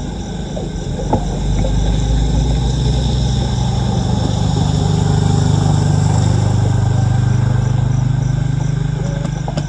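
A motor engine running, building louder through the middle and easing off near the end, like a vehicle going slowly past.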